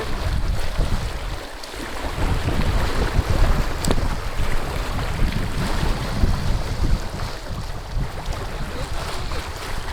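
Wind buffeting the microphone in a heavy, uneven low rumble, over the steady wash of sea waves.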